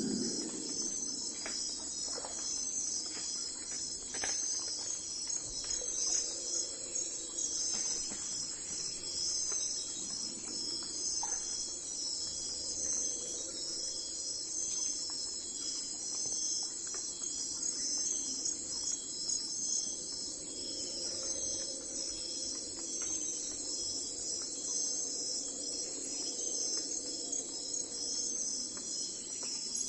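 Steady chorus of crickets chirping, a dense high-pitched pulsing trill, over a faint low hum, with a few soft ticks in the first few seconds.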